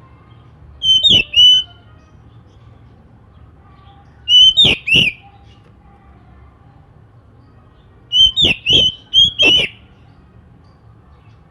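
Oriental magpie-robin (kacer) giving three bursts of loud, sharp whistled notes, each burst a few notes with quick drops in pitch; the last burst, near the end, is the longest.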